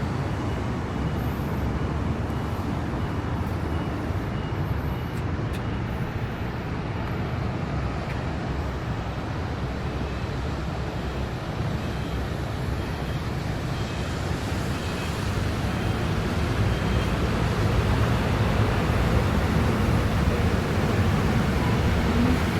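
City traffic on wet streets: a steady rumble and hiss of vehicles, growing louder in the second half as traffic comes closer.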